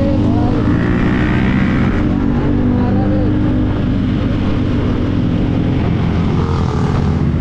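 KTM Duke 390's single-cylinder engine running steadily at road speed, heard with heavy wind rush over the microphone.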